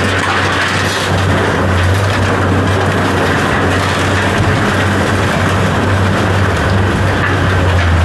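A motor or engine running steadily with a low hum and a rough, even noise over it.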